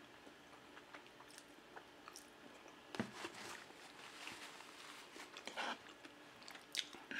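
Close-miked mouth sounds of a person chewing spaghetti in tomato sauce: soft, wet chewing with scattered small clicks, and a sharper knock about three seconds in.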